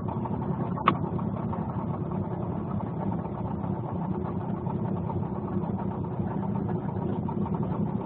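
Outboard boat motor running steadily, with a single sharp click about a second in.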